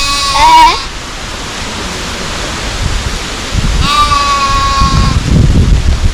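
Goat bleating twice: a short wavering bleat that drops in pitch, then a few seconds later a longer, steadier bleat lasting over a second.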